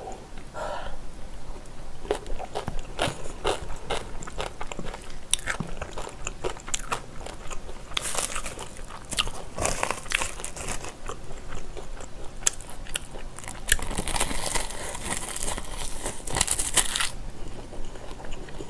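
A person eating close to the microphone: chewing and biting food, with crisp crunching in a few louder stretches.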